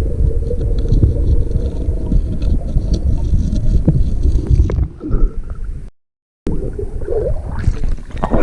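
Muffled underwater rumbling and gurgling of river water around a submerged camera. It breaks off abruptly about six seconds in, then a muffled rumble resumes.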